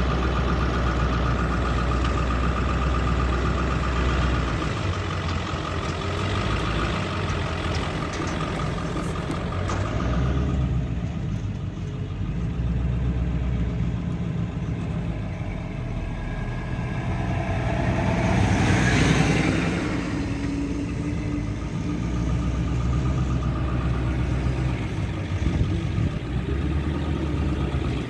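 Engines of heavy farm machinery running steadily during a corn silage harvest. A high whine runs through the first half, and a louder swell comes about two-thirds of the way through, as a machine passes close.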